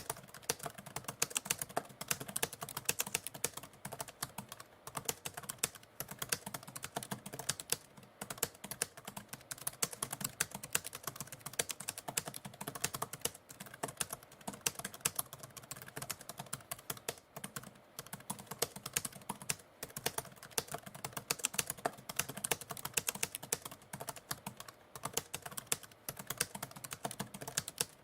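Typewriter keys struck in rapid, irregular continuous typing, with a few brief pauses.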